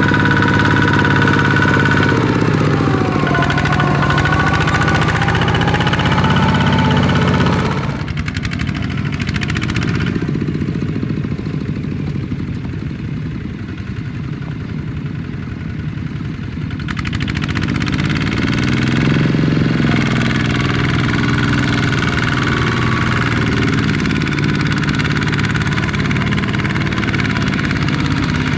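Small Kubota tractor engine running, dropping to a lower, quieter speed about eight seconds in and climbing back up again around seventeen seconds.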